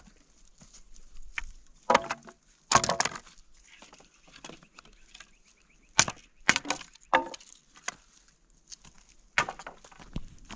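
Several sharp wooden cracks and knocks at irregular intervals, like wood being broken up. The loudest come about two and three seconds in and again about six seconds in.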